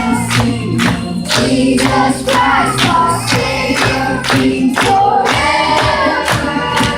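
Children's choir singing a gospel song over a backing track with a steady beat.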